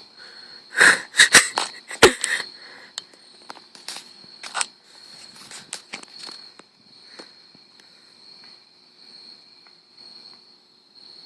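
Insects trilling steadily in one high, unbroken tone. A few loud rustling knocks come in the first couple of seconds, followed by scattered fainter clicks.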